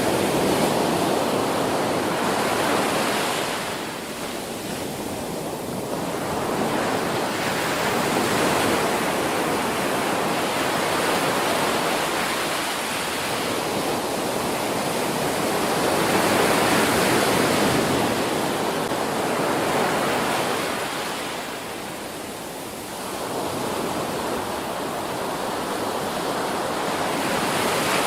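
Ocean surf: waves breaking and washing in as a steady rush that swells and eases every few seconds, softer for a moment twice.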